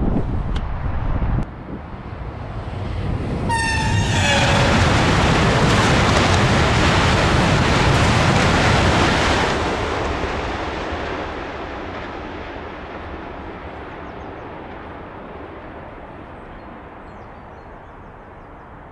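High-speed Eurostar train passing at speed: a rushing noise builds, and as the front passes a high electric tone drops sharply in pitch. The rush then fades slowly as the train recedes. A loud low rumble cuts off suddenly about a second in.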